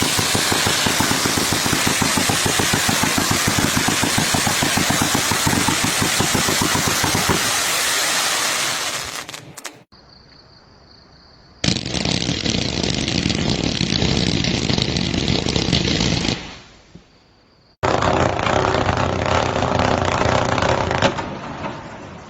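Fireworks firing in rapid strings of pops, many a second. There are three stretches: the first, about nine seconds long, fades out, and the next two start and stop abruptly, with quiet gaps between them.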